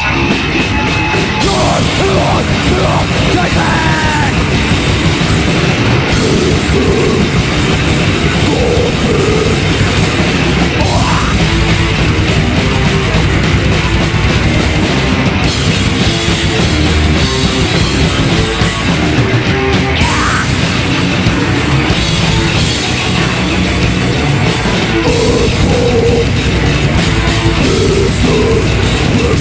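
Loud live heavy metal/punk band playing: two electric guitars, bass and drums in a dense, continuous wall of sound, with occasional pitch slides.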